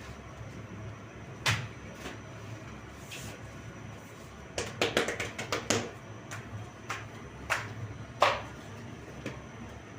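Scattered light knocks and taps, with a quick run of about a dozen taps just before the middle and two louder knocks, over a steady low hum.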